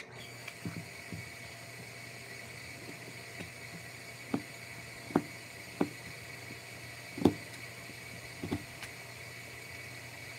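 About six sharp knocks at irregular spacing over a steady machine hum with a high thin whine.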